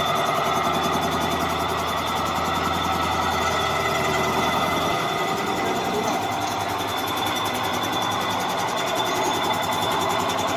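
A machine running steadily, with a dense mechanical drone; a low hum underneath drops out about halfway through.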